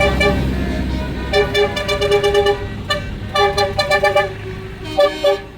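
Vehicle horn sounding a rapid series of short blasts in three bursts, over an engine's low running that fades in the first second.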